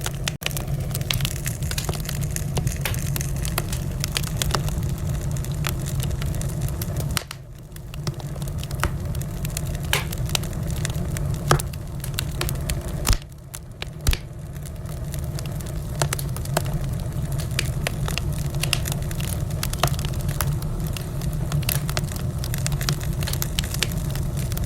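Wood fire burning in a fireplace, crackling steadily with many small sharp pops over a low, even rumble of the flames. A few louder pops stand out around the middle, and the sound drops briefly twice.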